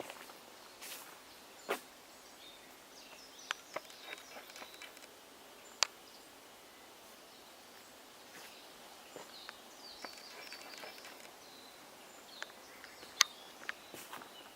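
Quiet marsh ambience with a few faint, brief bird calls and scattered sharp clicks, the loudest near the end.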